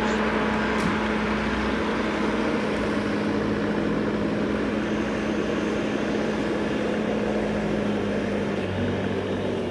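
Steady running noise of a train nearby, with a constant motor hum underneath that stops near the end.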